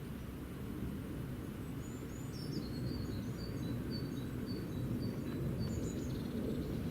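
Small birds chirping in short, high notes repeated a few times a second, over a steady low outdoor rumble.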